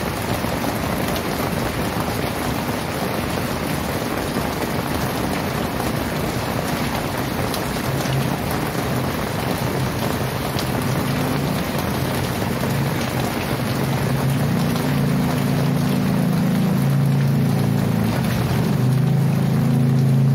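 Very heavy rain pouring down steadily. From about halfway through, a low motor drone comes up under the rain and grows louder toward the end.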